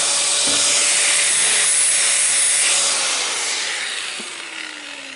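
Miter saw cutting through steel: a loud hissing grind over the motor's steady whine. About three seconds in the cut ends and the saw spins down, its whine slowly falling in pitch.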